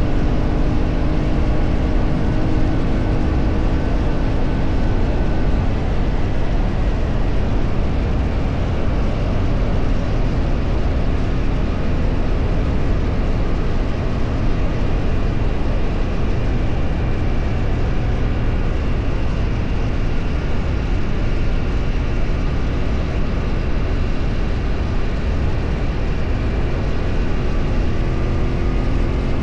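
A road vehicle's engine running while travelling, under a heavy, steady low rumble of road and wind noise. The engine note is clearest in the first few seconds and climbs in pitch near the end as it revs up.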